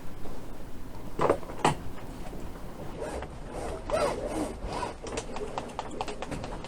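Sailboat's main halyard being tightened: rope rubbing and creaking through the rigging, with two sharp clicks about a second in.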